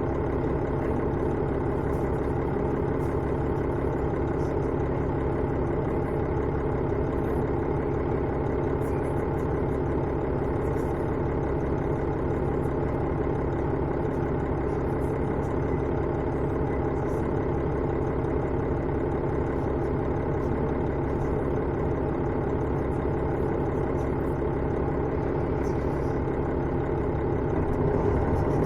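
Diesel engine of a KiHa 110 series railcar heard from inside the car, running steadily with a low drone, rising slightly near the end.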